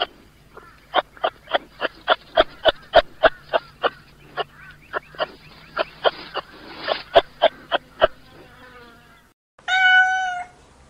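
A fast run of short, sharp animal calls, about three or four a second, lasting some eight seconds. After a brief silence, a single drawn-out domestic cat meow comes near the end.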